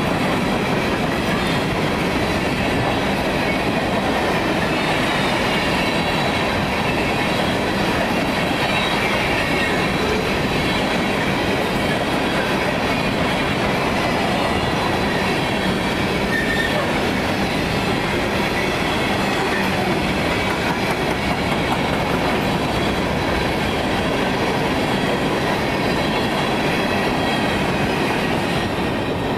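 Railroad cars rolling past close by: a steady rumble and rattle of steel wheels on the rails with faint high wheel squeal.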